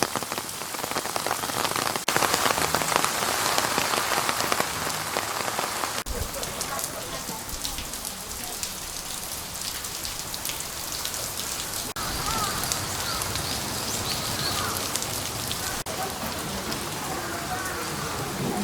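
Steady rain falling, a dense hiss full of sharp drop impacts, its character shifting at a few abrupt cuts.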